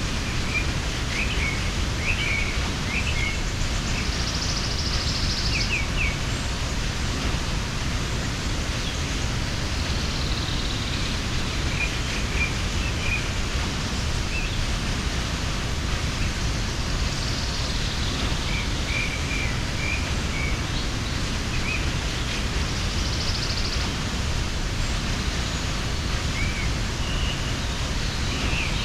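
Steady rush of a mountain waterfall, with short bird chirps scattered over it.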